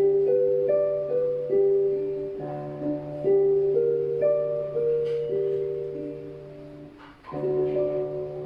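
Instrumental accompaniment with no voice: slow, gently struck keyboard chords over a held bass note. The music fades away and a new chord comes in about seven seconds in.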